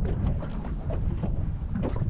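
Wind buffeting the microphone in a low, steady rumble, with a scattering of short, light knocks.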